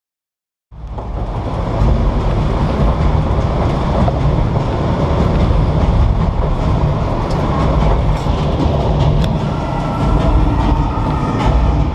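Studio tour tram running, a loud steady low rumble that swells in over the first two seconds and then holds.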